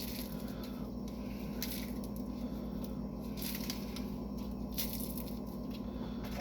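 Food being torn apart by hand, with a few short, soft squishing and rustling noises.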